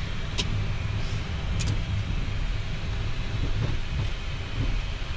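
Steady low rumble on the flight deck of a taxiing Boeing 737 MAX 8, its CFM LEAP-1B engines at idle. Two faint clicks come about half a second and just under two seconds in.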